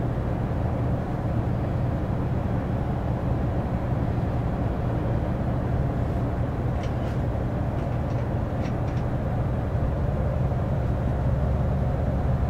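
Interior running sound of a JR Central HC85 hybrid railcar in its passenger cabin: a steady low drone from the underfloor engine and drive, with a few faint clicks about halfway through.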